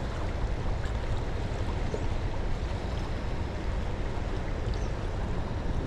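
Steady rushing outdoor noise, heaviest in the low end, with no distinct events.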